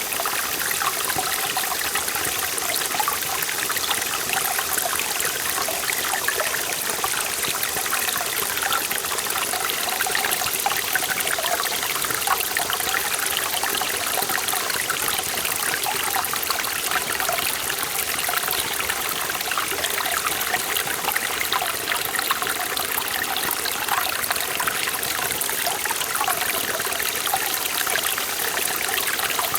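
Forest valley stream flowing steadily over rocks, with continuous splashing and trickling.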